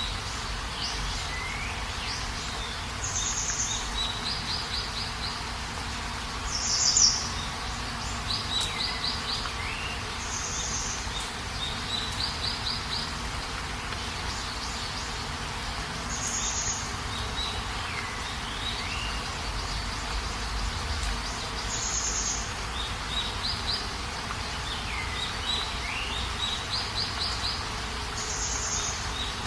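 Birds calling over a steady hiss of rain: a short high call repeating every five or six seconds, loudest about seven seconds in, among quick rattling trills and whistles that slide downward.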